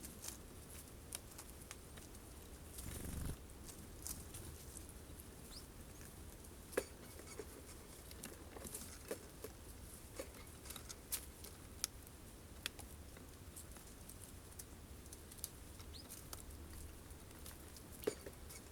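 Birds feeding at a feeder: scattered sharp taps and clicks of beaks pecking at sunflower seeds, with a dull thump about three seconds in.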